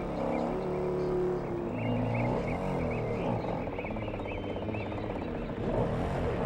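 Small electric motor of a radio-controlled camera boat whining, its pitch repeatedly rising and falling as the speed is changed.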